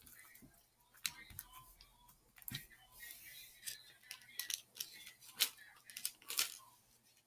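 Irregular sharp clicks and crackles from plastic beads and slime being handled.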